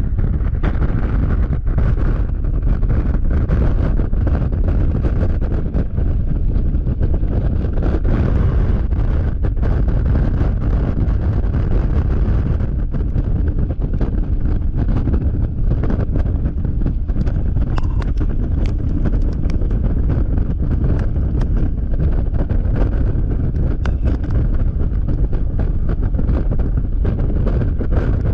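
Heavy wind buffeting the camera microphone on a Yamaha XMAX scooter at highway speed: a steady, loud low rumble of rushing air, with the scooter's running noise mixed in underneath.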